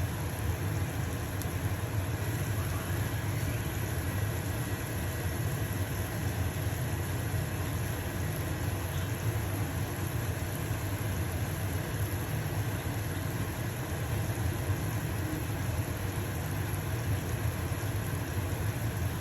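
A stove-top fan running with a steady low hum, mixed with the sizzle of a pancake frying in a pan.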